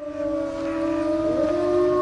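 Several wolves howling together, holding long steady notes at different pitches, with one voice sliding upward in pitch partway through. A steady hiss lies under the howls.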